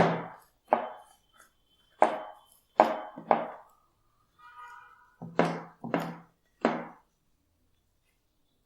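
Glossy slime being pressed and squished by hand, giving eight short pops at uneven intervals and a brief squeak midway.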